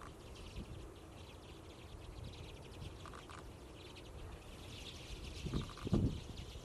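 A flock of common redpolls calling: a dense, continuous chatter of short high calls, with a loud low thump near the end.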